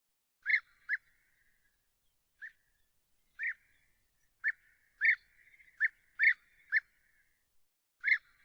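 A bird giving a series of short, sharp calls, about ten notes at irregular intervals, each note brief and high.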